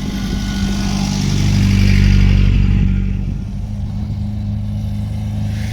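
MG car's engine running as it drives past, loudest about two seconds in and then fading as it moves away.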